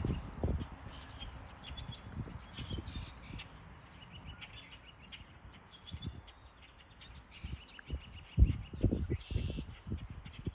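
Wild birds chirping and calling, with a couple of harsher, caw-like calls about three and nine seconds in. Low rumbling thumps come and go, the loudest a little over eight seconds in.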